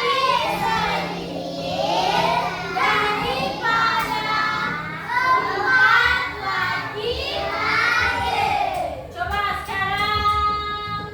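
Children singing a song together, phrase after phrase, ending on a long held note near the end.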